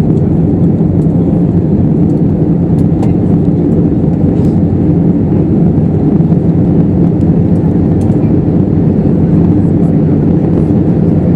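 Steady cabin roar inside an Airbus A320neo in flight: air rushing past the fuselage and the CFM LEAP-1A26 turbofans, a loud, even low rumble with a few steady hum tones.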